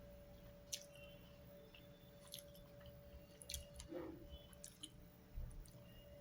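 A person chewing food close to the microphone: soft, scattered wet mouth clicks and squishes, a few a second at most.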